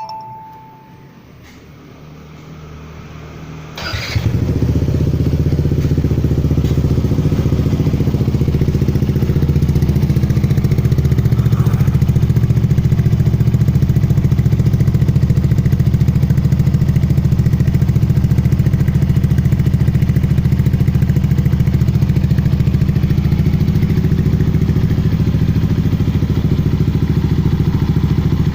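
Yamaha NMAX 155 scooter's single-cylinder engine, fitted with an aftermarket R9 Misano exhaust, starting about four seconds in after a short beep, then idling steadily through the loud aftermarket exhaust.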